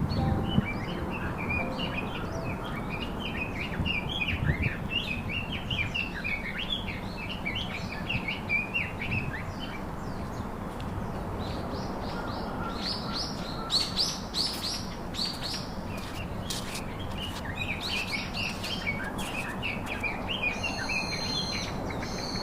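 Small birds chirping and singing, many short quick calls overlapping, over a steady low outdoor background noise.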